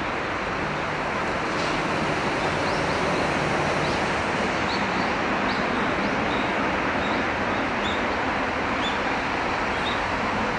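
Steady rushing of flowing river water, with a small bird's short high chirps repeating about once or twice a second.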